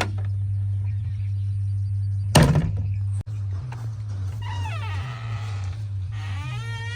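Diesel engine running steadily, with one heavy thud about two and a half seconds in. Later come two wavering, high squeals, one near the middle and one near the end.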